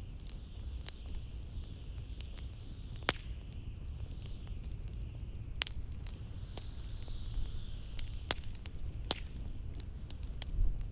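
Blizzard wind with a steady low rumble and a faint whistling hiss that swells and fades, over a wood fire crackling, with irregular small snaps and a few sharper pops.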